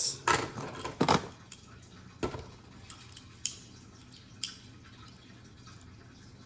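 Beyblade tops and loose parts clicking and clinking against each other and the plastic stadium as they are handled, a few sharp knocks in the first couple of seconds, then only a few scattered light ticks.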